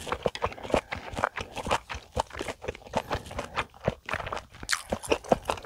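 Close-miked chewing of a mouthful of seasoned vegetable side dishes (namul) with the mouth full: a steady run of wet clicks and smacks, a few each second.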